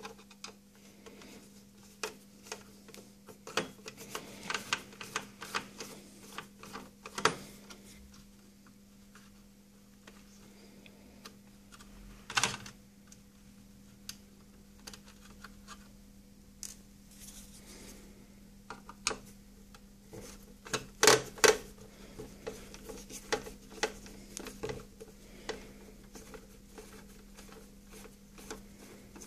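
Scattered small clicks, taps and metallic clinks of screws, a screwdriver and the metal case of a PC power supply as the case is taken apart, with louder clatters about twelve seconds in and again around twenty-one seconds. A faint steady low hum runs underneath.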